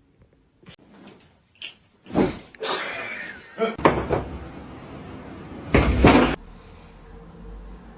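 A series of knocks and bangs with scraping, rattling noise between them; the loudest come about two, four and six seconds in.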